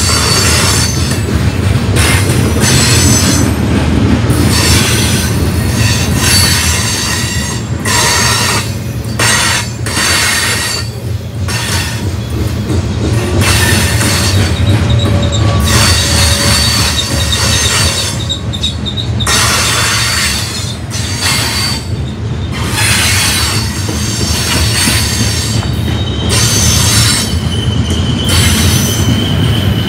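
Freight train of covered hopper cars rolling past at close range: a loud, steady rumble of steel wheels on rail. High thin wheel squeals come and go over it.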